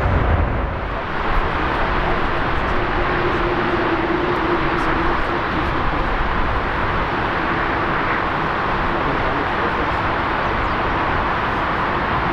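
Jet airliner engines running, a loud steady rushing noise with a faint steady hum from a few seconds in.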